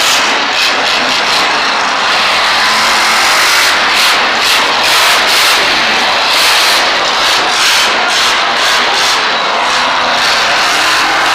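Monster truck engine running hard, a loud, steady, dense engine noise with the revs rising and falling.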